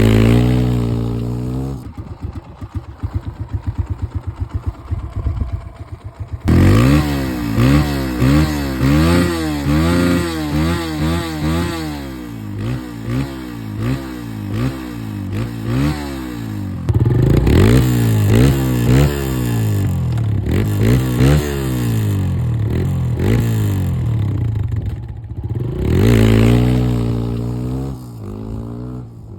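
Kawasaki KLX140 dirt bike's single-cylinder four-stroke engine, running low and even for a few seconds, then revved again and again, its pitch rising and falling with each twist of the throttle.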